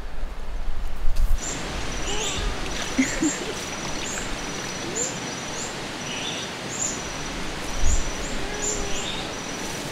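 Outdoor ambience of small birds calling, short high chirps repeating about once or twice a second over a steady hiss. In the first second or so, low rumbling handling noise with a few clicks.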